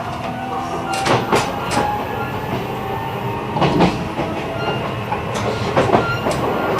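E129-series electric train running, heard from inside the motor car: the Toyo IGBT inverter and traction motors give steady tones over the running noise. The wheels click sharply over rail joints several times.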